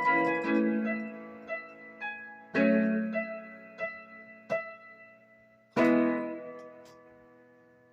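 Battery-powered electronic keyboard played with a piano sound: slow chords, two loud ones about two and a half and six seconds in, with softer single notes between, each left to ring and fade out.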